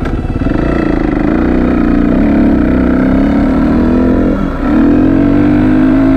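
Motorcycle engine running hard under way, its note dropping briefly about four and a half seconds in before it pulls again.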